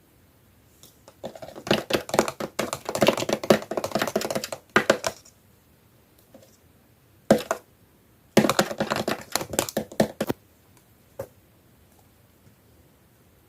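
Slime being handled, giving dense runs of sharp, wet clicking and popping: one long run starting about a second in, a single click, then a second run.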